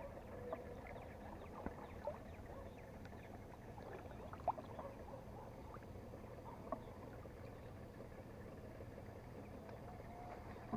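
Faint lake ambience: a steady low rumble of distant road traffic, with scattered small chirps, clicks and drips from the kayak and water, the sharpest about four and a half seconds in.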